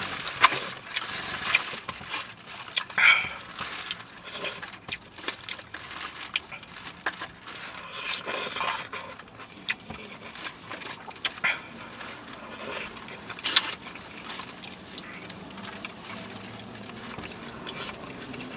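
A person eating close to the microphone: wet chewing and mouth smacks with scattered sharp clicks, irregular throughout.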